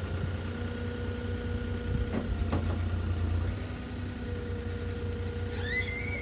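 Truck engine running with a steady low rumble. Near the end a high tone rises and then holds.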